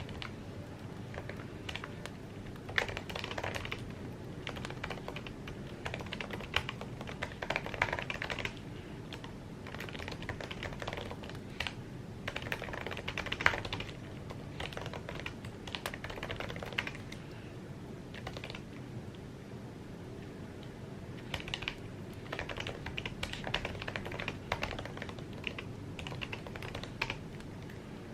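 Typing on an Apple keyboard: quick runs of soft key clicks, broken by short pauses, over a steady low background noise.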